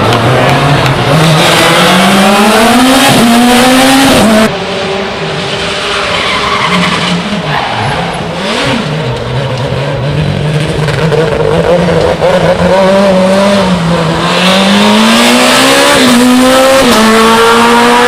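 Rally car engines accelerating hard through the gears, pitch climbing and dropping back at each shift, with tyre squeal. About four and a half seconds in the sound cuts abruptly to a quieter car, whose engine climbs through the gears again near the end.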